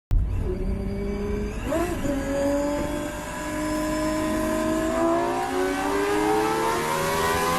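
Car engine running and accelerating, its pitch rising steadily after a brief wobble about two seconds in.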